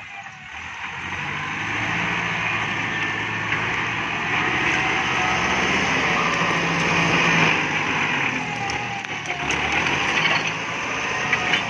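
Kubota MU5702 tractor's diesel engine running hard under load, rising in level about a second in and then holding steady.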